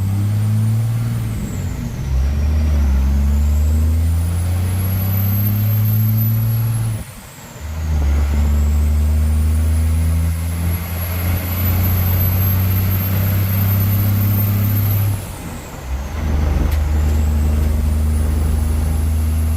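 Vehicle engine pulling away and accelerating through the gears. The drone drops off briefly at each shift, about two, seven and sixteen seconds in, and a faint high whine climbs with each gear and falls back at each shift.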